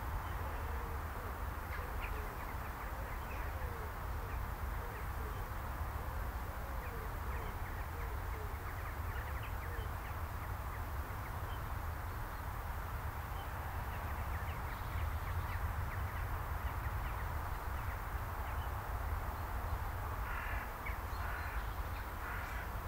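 Birds calling here and there over a steady low rumble, with a quick run of a few louder, repeated calls near the end.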